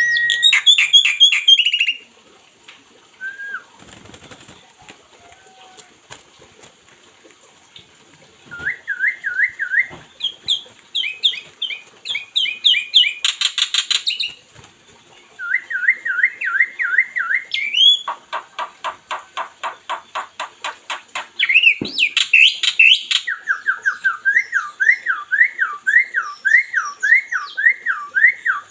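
Pet songbird singing in phrases: quick runs of rising whistled notes repeated several times a second, broken by fast rattling chatter and short chirps, with a pause of a few seconds near the start.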